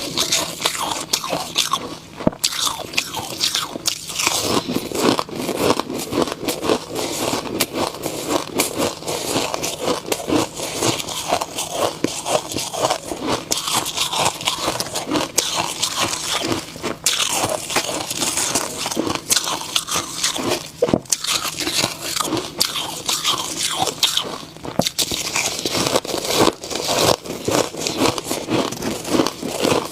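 A person biting and chewing snow ice close to the microphone: continuous crisp crunching and crackling, bite after bite.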